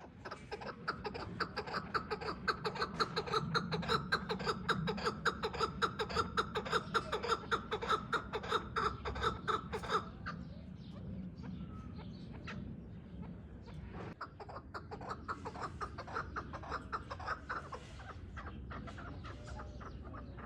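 Chukar partridges calling: a fast, loud run of repeated clucking notes, about four a second. It breaks off abruptly about halfway through, and quieter, more scattered calls follow.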